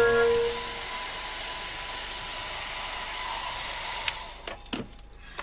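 Hair dryer running with a steady hiss and a faint whine, switched off with a click about four seconds in, followed by a few light knocks.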